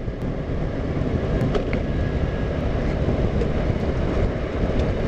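Motor scooter on the move: a steady rumble of engine and wind buffeting the microphone, a little louder than the moments just before.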